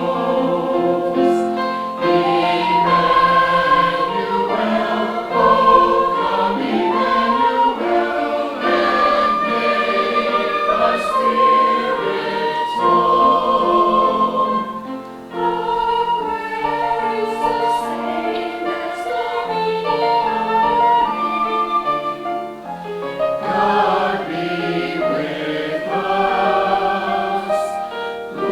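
Church choir singing, with a brief drop in loudness about halfway through.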